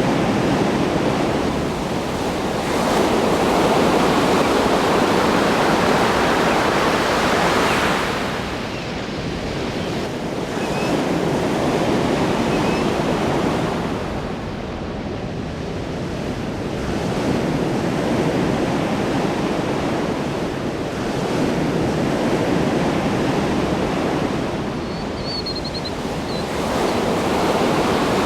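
Ocean waves breaking and washing on a shore, a steady roar of surf that swells and eases every few seconds, with a few faint high chirps, one of them near the end.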